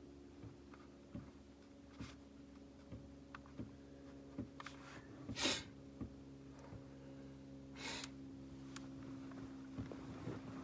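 Steady low hum with scattered faint ticks, and two short sniffs about five and a half and eight seconds in.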